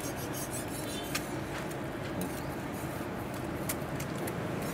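Peeled boiled eggs frying in a little oil on a large flat tawa: a steady low sizzle with scattered small pops.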